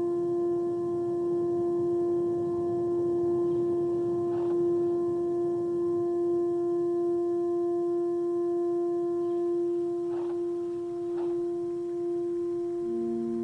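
A sustained, unchanging synthesized drone note with overtones, the kind of held pad used in ambient relaxation music. A second, lower note joins near the end.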